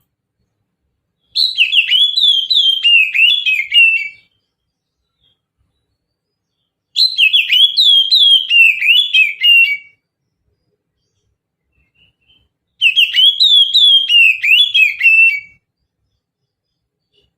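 Oriental magpie-robin (kacer) singing: three near-identical song phrases of about three seconds each, each a rapid run of whistled notes that slur downward, with a few seconds of silence between them.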